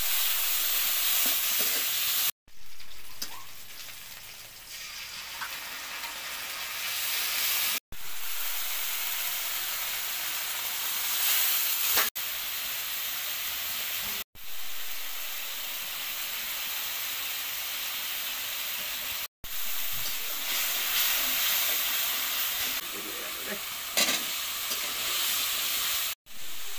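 Oil and spices sizzling in a steel karahi over a wood fire, with a metal spatula stirring and scraping the pan. The steady sizzle is cut by several brief silences.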